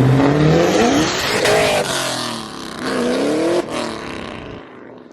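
Car engine accelerating hard: its pitch climbs, drops at a gear shift, climbs again, and the sound fades as the car pulls away.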